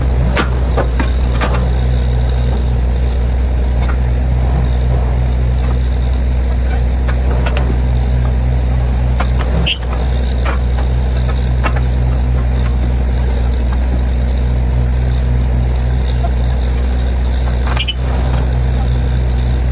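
Borewell drilling rig's diesel engine and drilling machinery running loud and steady at a constant pitch, with two brief clicks about eight seconds apart.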